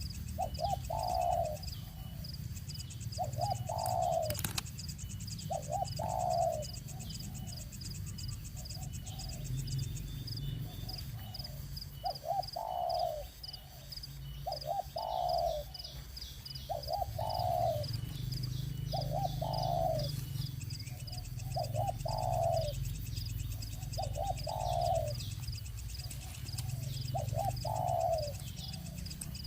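A bird repeating a short low call about every two seconds, each a quick double note followed by a longer one. Thin high-pitched chirps run continuously above it, over a steady low hum.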